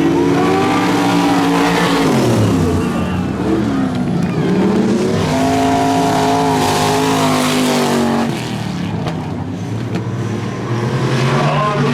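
Race car engines at full throttle, their pitch dropping about two seconds in, climbing again, holding steady, then dipping and rising once more near the end as the cars lap the track.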